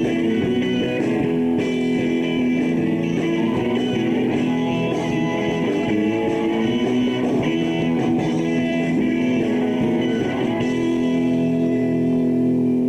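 Rock band playing live with guitar to the fore. About ten seconds in, the music settles into a steady held chord.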